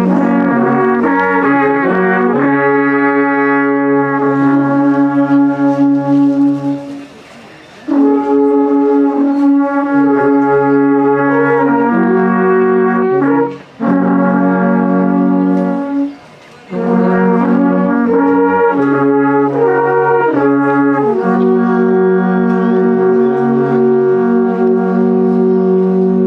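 Brass instruments playing slow music in several parts, held chords over a low bass line, in phrases with three short breaks.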